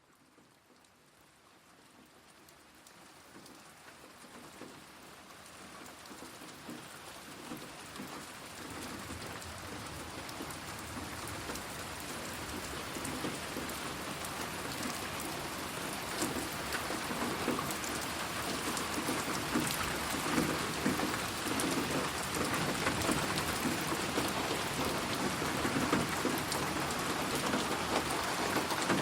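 Steady rain falling, a dense patter of drops, fading in gradually over the first dozen seconds and then holding level. It is mixed as 8D audio, moving around the listener.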